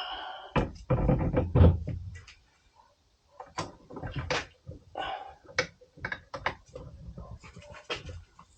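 Heavy thuds for about the first two seconds, then a run of sharp knocks and clicks. These are metal car parts being handled and knocked together during CV axle work.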